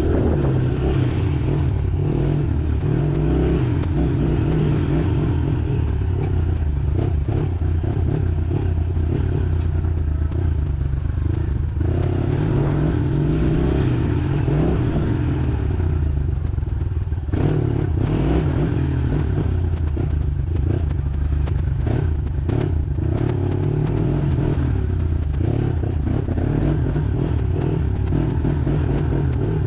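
Honda 110 dirt bike's small single-cylinder engine running steadily, with scattered clatters and knocks.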